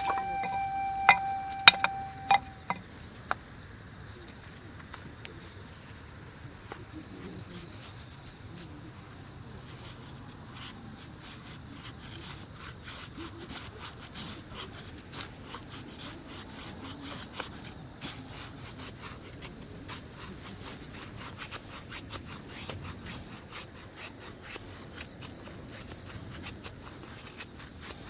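Insects chirring in a steady, unbroken high-pitched drone, with a handful of sharp knocks in the first few seconds.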